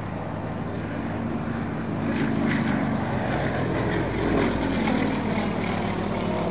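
Yak-50 aerobatic planes flying by in formation, their nine-cylinder radial engines and propellers droning. The sound swells about two seconds in and is loudest past the middle.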